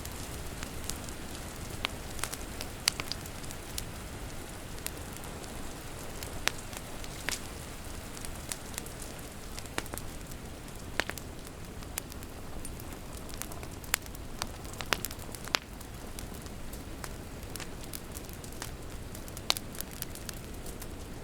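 Wood fire crackling, with irregular sharp pops of burning logs over a steady hiss of rain.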